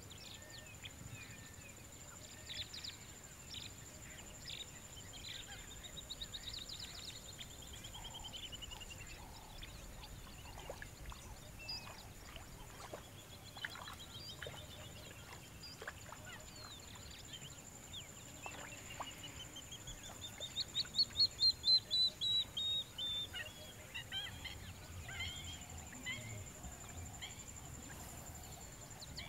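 Wetland bird ambience: a bird gives a rapid run of notes falling in pitch three times, loudest about twenty seconds in. Scattered chirps from other birds and a steady high-pitched whine run underneath.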